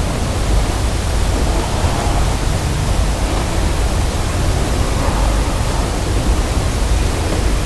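Steady hiss with an unsteady low rumble, the sound of wind buffeting the microphone outdoors.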